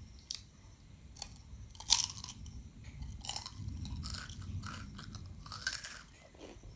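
Crunching bites and chewing of a fried goldfinger snack, a series of short crunches with the loudest about two seconds in, and steady chewing between them.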